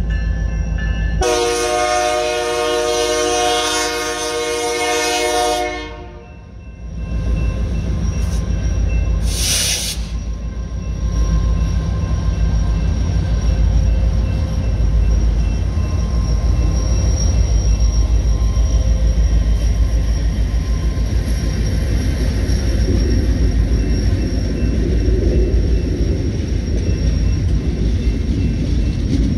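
BNSF diesel freight locomotive sounding its air horn in one long chord of several tones, then its engine and the train's wheels rumbling steadily past over the crossing. A brief hiss comes about ten seconds in.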